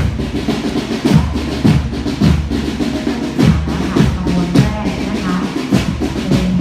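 School marching band drum line playing a march beat: a bass drum striking steadily about every 0.6 seconds under rapid snare drum strokes and rolls.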